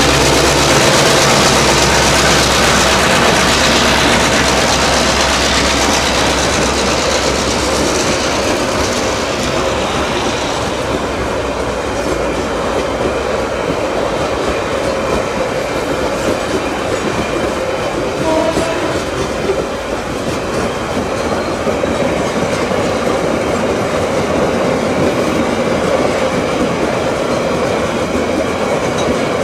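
CC 202 diesel locomotive passing close, its engine running at first, then a long train of loaded ballast hopper wagons rolling steadily past, wheels running over the rails.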